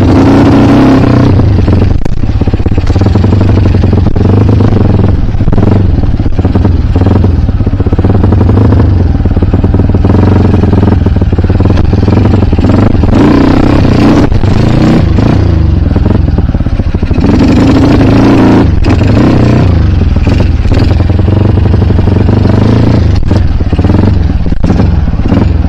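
Kawasaki KLX dirt bike's single-cylinder engine revving up and down again and again as it is ridden along a rough enduro trail, with occasional knocks.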